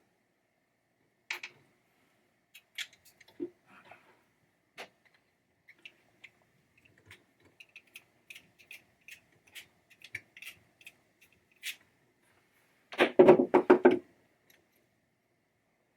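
Scattered light clicks and ticks of small metal hardware and a hand tool as screws and nylock nuts are taken off a pinball trap door coil bracket, then a short, louder rattling clatter of parts about thirteen seconds in.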